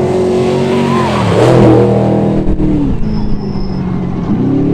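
A Trophy Truck's race engine at high revs as the truck passes close by, loudest about a second and a half in, where its pitch drops. The engine then holds a steady note, and the revs change again near the end.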